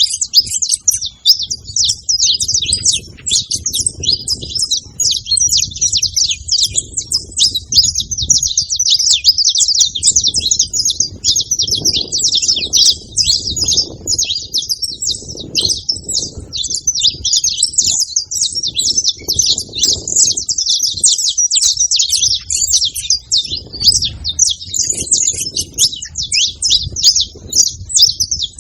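Saffron finches singing together in a dense, unbroken stream of quick high chirps and trills. A low rumble comes and goes underneath.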